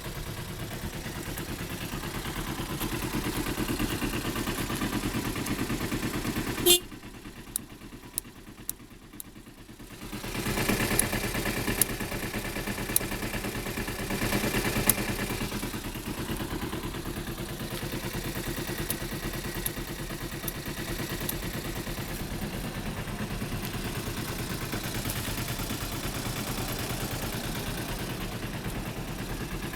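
Kawasaki ZZ-R250 parallel-twin engine running through an aftermarket racing muffler, mostly at a steady idle. About a third of the way in, the sound cuts off suddenly with a click and drops low for about three seconds. It then comes back, with a few sharp ticks over the next few seconds.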